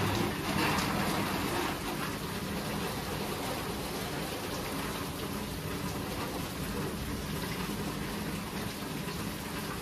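Steady, dense rain falling, a little louder in the first two seconds.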